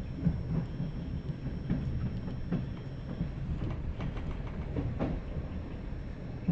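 Type 120A passenger coach running over the track, heard from inside the carriage: a steady low rumble with irregular clicks of the wheels over rail joints.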